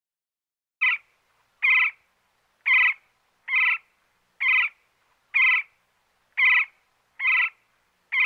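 An animal's short call, repeated nine times at an even pace of about one a second, each call brief and the same as the last.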